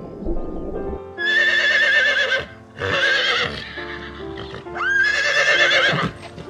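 Horse whinnying three times, each a high, quavering call of about a second, the first starting about a second in and the last about five seconds in, over steady background music.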